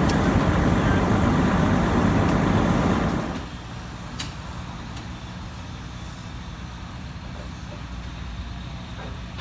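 Heavy diesel machinery running loud, dropping to a quieter steady low rumble about three seconds in, with a single click about a second later.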